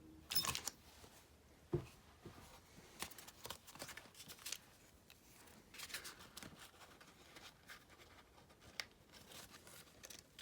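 Quiet handling of paper and small craft pieces on a desk: soft rustling, crinkling and a few small clicks and taps, with a slightly louder rustle near the start.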